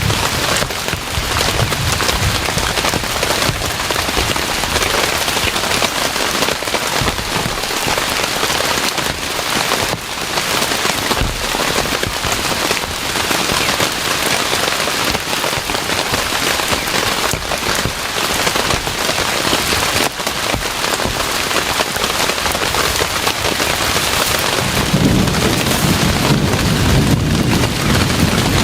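Heavy rain falling steadily in a thunderstorm, with a low rumble of thunder rolling in near the end.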